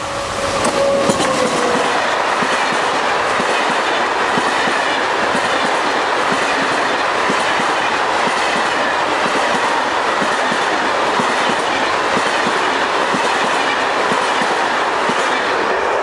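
Electric locomotive and passenger coaches passing close at speed. About a second in, a tone drops in pitch as the locomotive goes by. Then comes the steady rush and clickety-clack of the coaches' wheels over the rails.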